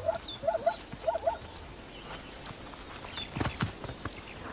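Wild birds calling in open grassland: a repeated wavering two-note call about twice a second that stops after about a second and a half, with thin high falling chirps scattered throughout. A few soft clicks come a little past three seconds in.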